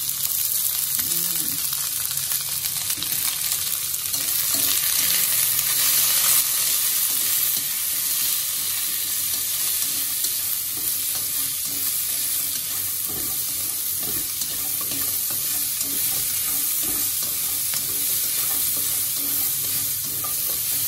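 Green beans stir-frying in a wok, the oil sizzling steadily as they are tossed with wooden chopsticks, with light clicks of the chopsticks against the pan.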